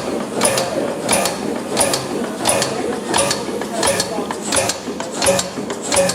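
Old stationary engine running slowly and evenly, its valve gear clattering once a stroke, about every 0.7 seconds.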